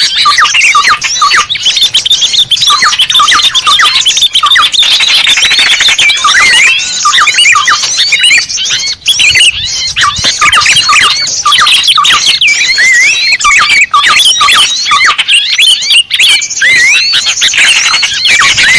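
Bird-lure (pikat) recording of many small birds chirping and squeaking over one another: a dense, loud, continuous chorus of short rapid calls and quick rising whistles.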